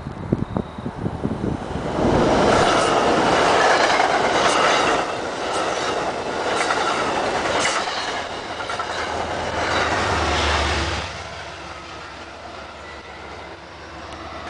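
Metro-North passenger train rushing past, its wheels running on the rails with scattered sharp clacks. The noise comes up suddenly about two seconds in and falls away around eleven seconds as the train moves off down the line.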